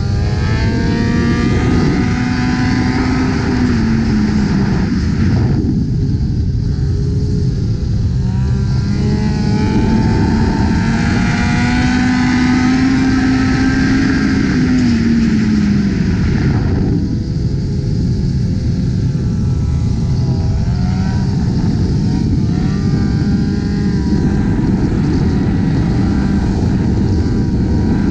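Motorcycle engine running at highway speed over a steady rush of noise. Its pitch holds, drops about three seconds in, climbs again from around eight seconds, and drops once more near sixteen seconds.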